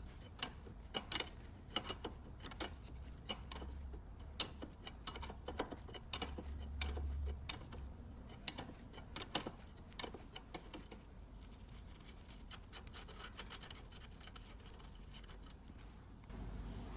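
Hand tools being worked on metal during a car suspension repair: irregular sharp clicks, ticks and scraping, with a low rumble about midway.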